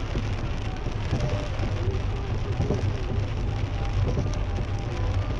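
Steady rain falling on a car's roof and windscreen, heard from inside the cabin, over the low rumble of the car driving on a wet road.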